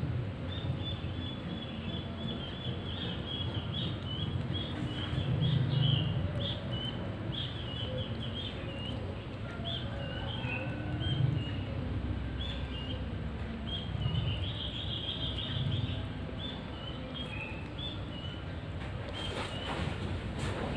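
Small birds chirping continuously in many short, high notes, over a low rumble that swells a few times.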